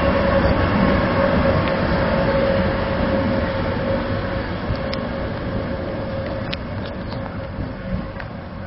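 SBB Pendolino electric express train running past and away down the line, its rumble fading steadily, with a steady hum over it. A few faint clicks come in the second half.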